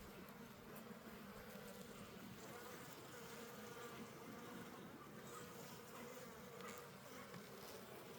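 Honeybees buzzing around an opened hive during a frame inspection: a faint, steady hum that wavers slightly in pitch.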